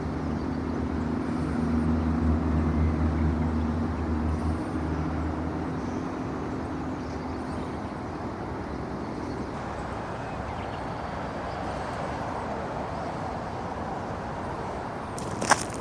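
A motor vehicle engine running steadily, fading away after about nine seconds, leaving outdoor background noise; two sharp clicks near the end.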